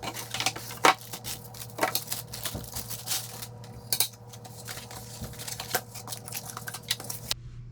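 Rustling and tearing of packaging with scattered clicks and knocks as a replacement fireplace blower is unpacked, over a steady low hum. The sound cuts off suddenly shortly before the end.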